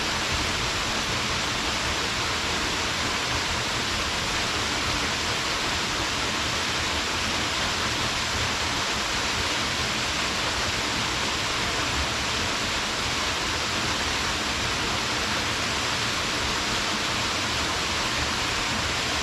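Waterfall pouring steadily: an even, unbroken rushing hiss of falling water that does not change.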